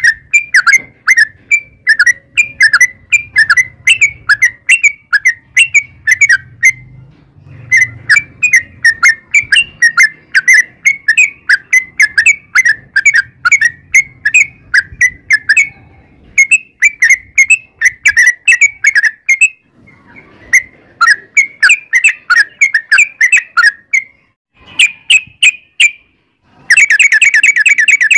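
Yellow-vented bulbul (trucukan) singing in long, fast runs of bright chirping notes, several a second, in phrases of a few seconds broken by short pauses. Near the end the song runs into a dense, rapid trill. This is the long 'ropel' song used as a lure to set other bulbuls singing.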